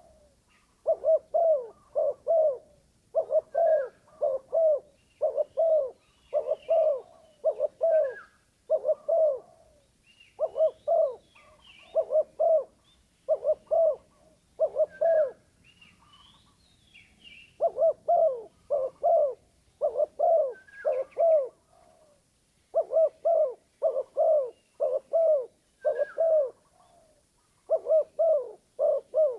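Spotted dove (terkukur) decoy cooing over and over in short phrases of a few coos each, with brief pauses between phrases; a call the owner admits is not pleasant to hear. Fainter, higher chirps of other small birds come through now and then.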